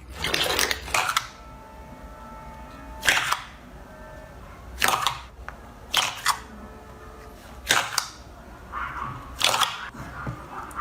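Slime being squeezed and poked by hand, giving a series of sharp crackling pops about a second or two apart as air pockets burst.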